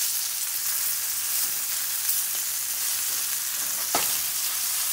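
Battered bass nuggets frying in hot oil in a nonstick skillet: a steady crackling sizzle, with one sharp click about four seconds in.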